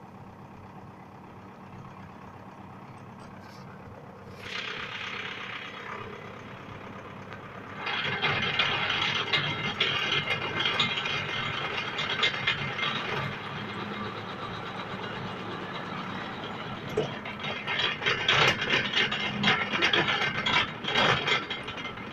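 Tractor engine running steadily with a power-driven auger drilling into the ground. About four seconds in, a harsh rattling noise starts; from about eight seconds it turns loud and grinding, eases off in the middle, then surges again near the end.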